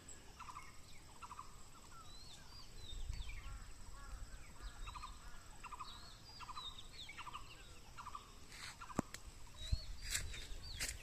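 Birds calling over and over: a short pulsing call repeats every second or so, with higher chirping notes above it. A few sharp clicks come in near the end.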